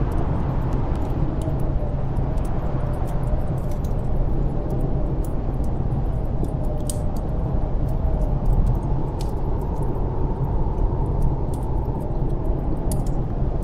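Snowstorm wind blowing steadily with a deep rumble and a faint wavering whistle, over the scattered sharp crackles of a wood fire in a fireplace.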